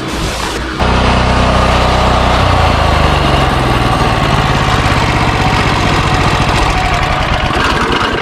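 Pressure washer running: a small engine's steady drone under the hiss of the water spray, starting abruptly about a second in.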